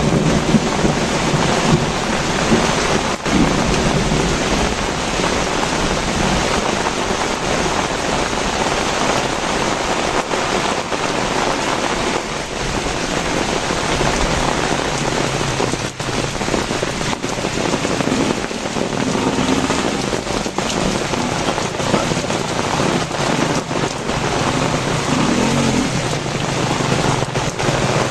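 Heavy rain pouring down steadily, with a low rumble in the first second or so.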